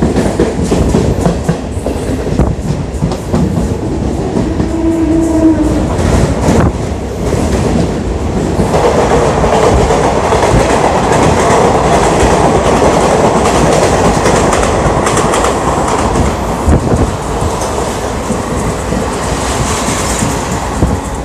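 Train wheels clattering over rail joints, heard from the open doorway of a moving passenger train as other trains pass on the adjacent tracks. Sharp clicks come thick in the first part, then a dense, steady rushing rumble takes over from about eight seconds in.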